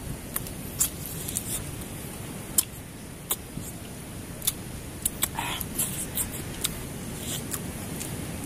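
Close eating sounds of chicken being chewed and bitten off the bone: irregular sharp crunches and mouth smacks, about a dozen scattered through.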